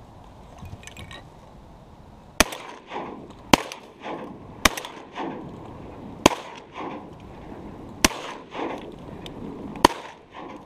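Six shotgun shots fired in quick succession by waterfowl hunters, about one every second and a half, each followed by a softer echo.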